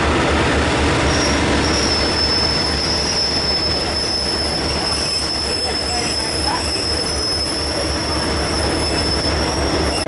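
Heritage passenger carriages rolling slowly past on the rails. Their wheels give a steady high-pitched squeal from about a second and a half in, over the rumble of the wheels on the track.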